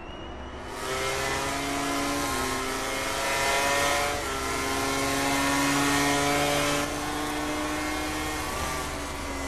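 MotoGP racing motorcycle engine running at fairly steady revs. Its pitch holds, then steps up or down every second or two.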